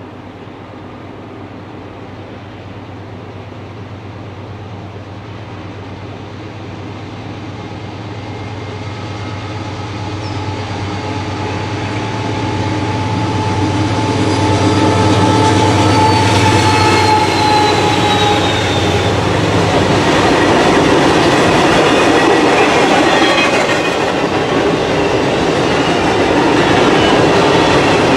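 Diesel-hauled freight train approaching and passing, growing steadily louder over about fifteen seconds. A steady low locomotive engine hum gives way about twenty seconds in to the rolling roar and clickety-clack of the freight cars. A thin high wheel squeal, slightly falling in pitch, sounds in the middle.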